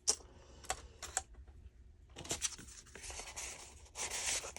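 Paper and cardstock rustling and sliding as a journaling card is worked into a paper envelope pocket that it keeps catching on: a few light taps, then several scraping swishes.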